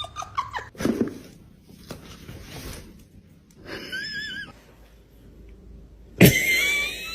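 A few light knocks, a short high wavering call from a pet about four seconds in, then a sudden loud cry with rising high tones near the end.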